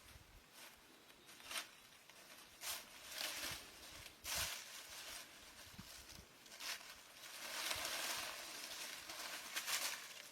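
Irregular rustling and brushing noises: several short scrapes, then a longer stretch about seven to nine seconds in.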